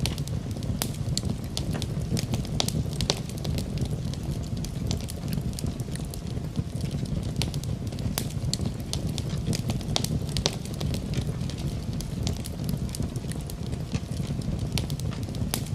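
Wood fire burning in a fireplace, with a steady low rumble and frequent irregular crackles and pops from the burning logs.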